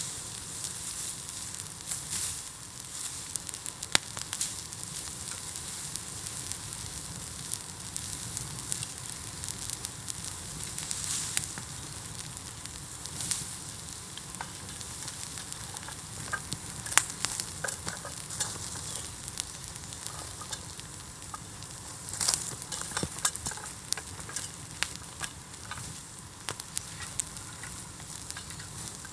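Bamboo bonfire burning: a steady hiss full of dense crackling, with a few louder sharp pops scattered through.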